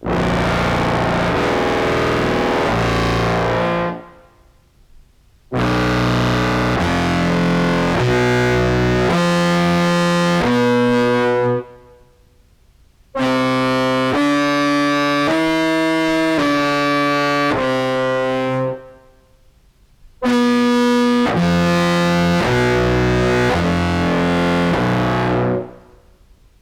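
Contrabass clarinet played through an octave pedal with octaves mixed above and below the played note, into a fuzz pedal, giving a thick, distorted, buzzing tone. It plays four short phrases of stepping notes, each note lasting about half a second to a second, with short pauses between phrases.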